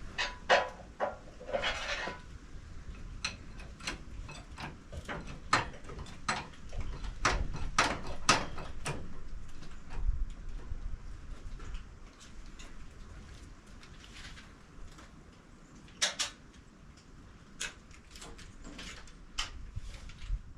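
Irregular clicks and metal knocks, some close together, as a log is set and clamped on a portable band sawmill.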